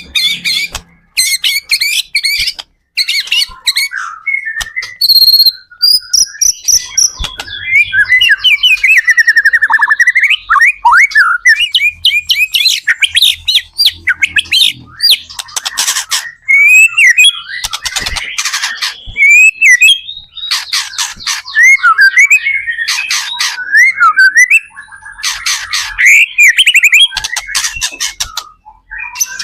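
White-rumped shama (murai batu) singing loudly and continuously: a varied string of rapid trills, slurred whistles and sharp chattering phrases, with short pauses between them.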